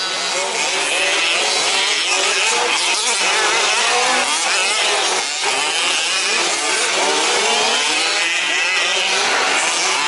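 Several 1/5-scale RC trucks' small two-stroke petrol engines racing together, a busy buzz of overlapping engine notes whose pitches keep rising and falling as they rev and back off.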